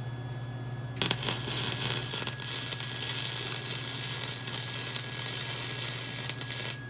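Gasless flux-core wire-feed welder running a short weld on a steel minibike frame: a loud, crackling arc starts abruptly about a second in and cuts off near the end, over a steady electrical hum.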